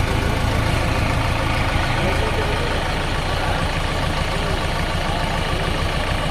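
Diesel engine of a JCB backhoe loader running steadily with a low, evenly pulsing rumble.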